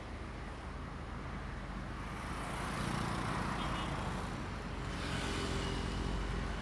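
An engine running with a steady low drone, growing louder about two and a half seconds in, amid outdoor traffic noise.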